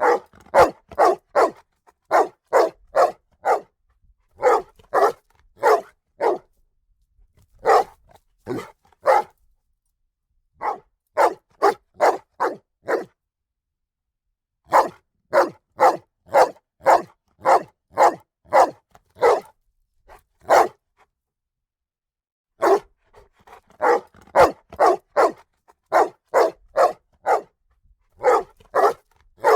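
A dog barking in quick runs of several sharp barks, with short pauses between the runs.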